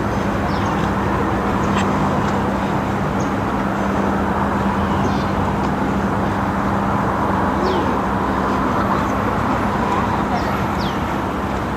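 A steady rushing outdoor background with a constant low hum, over which a bird gives short, quickly falling chirps now and then, about five times.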